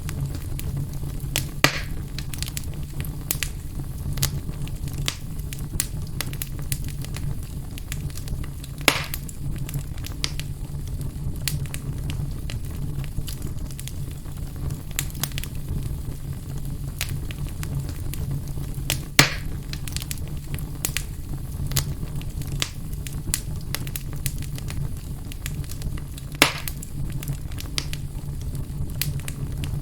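Wood fire in a fireplace crackling, with frequent small snaps and four louder pops spread through, over a steady low rumble.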